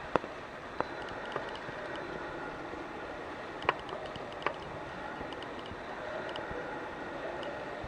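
Steady outdoor rushing noise with a few sharp knocks, the loudest about three and a half seconds in.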